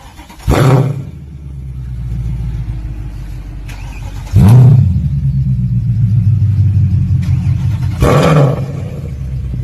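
A car engine and exhaust starting with a loud burst about half a second in and settling into a low idle. The throttle is blipped twice more, about four and eight seconds in.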